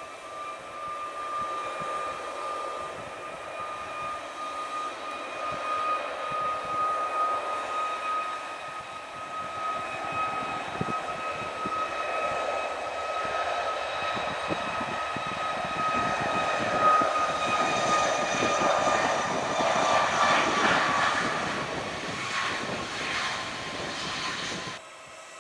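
Airliner engines running with a steady high whine under a rising rush, growing louder toward a peak. Near the end the whine drops slightly in pitch, and the sound cuts off abruptly.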